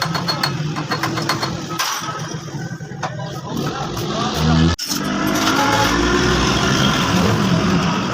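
Motor vehicle engine running, cut off abruptly about halfway through and followed by a steadier, fuller engine sound.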